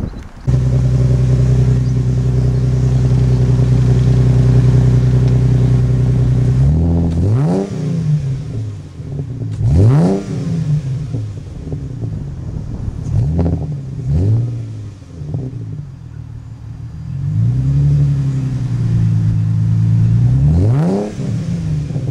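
Chrysler Crossfire's V6 heard through an aftermarket burnt-tip dual muffler. It starts suddenly about half a second in and holds steady revs for about six seconds. Then come a series of sharp revs that climb and drop back, one longer held rev, and a final rev near the end.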